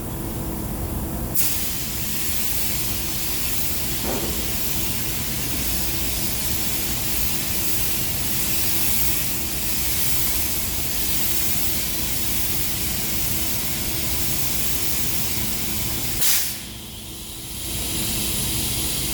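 Paint spray gun hissing steadily as it sprays silver-mirror coating. The spray starts about a second in, cuts off briefly near the end, then starts again, over a faint steady low hum.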